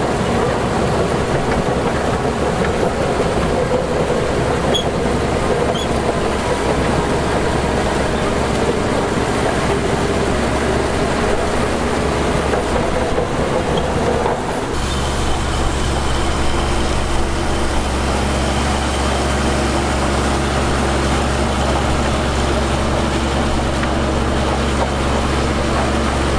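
Heavy earthmoving machinery running loudly, diesel engine with clanking from the tracks or body. About 15 seconds in the sound changes abruptly to a steadier, deeper engine hum.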